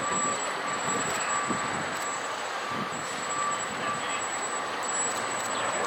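Motorized overhead apparatus-bay door of a fire station running open: a steady mechanical drone with a thin high whine, dropping out briefly about three seconds in.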